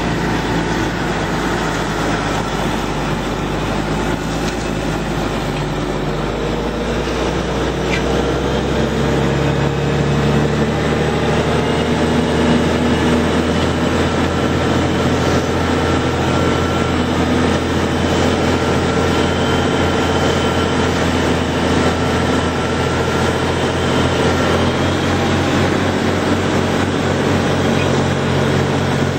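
Large diesel engine of a Steiger four-wheel-drive tractor running steadily, its note shifting about nine seconds in and then holding.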